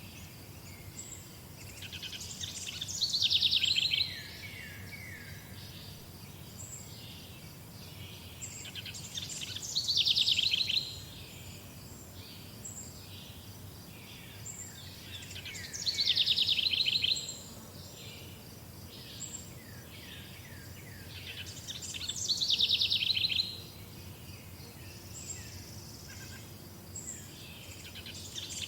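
Songbirds singing: one bird repeats a loud phrase of about two seconds roughly every six seconds, sliding down in pitch into a fast trill, over softer scattered chirps from other birds. A steady low background noise runs underneath.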